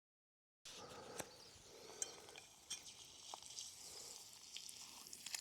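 Egg frying in bacon grease over an open fire: a faint sizzle with scattered sharp pops and crackles. It begins after a moment of dead silence.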